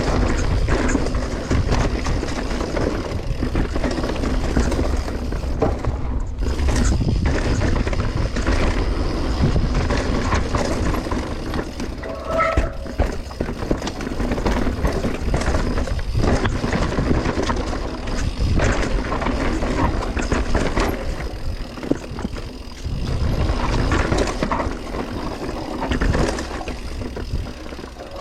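Mountain bike riding down a dirt trail: steady wind rush on the microphone with tyre noise and the bike's rattling knocks over bumps, and one short squeal about twelve seconds in.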